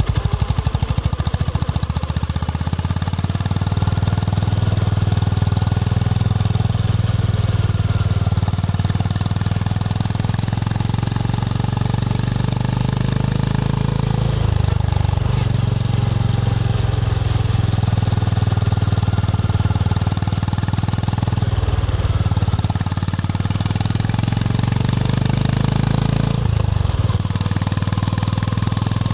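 Honda GB350 (CB350) motorcycle's single-cylinder engine running under way, a steady low thumping note. The engine note drops briefly about halfway through, again about three-quarters of the way through, and once more near the end.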